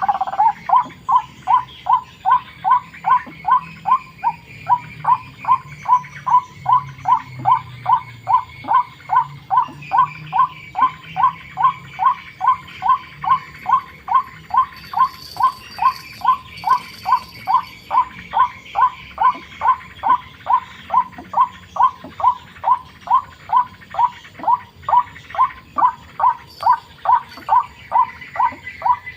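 White-breasted waterhen's monotonous call: one short note repeated steadily, about two and a half times a second, at an even pitch.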